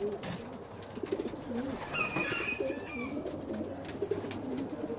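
Young racing homer pigeons cooing in the loft, low wavering coos overlapping throughout, with a brief higher squeak about two seconds in.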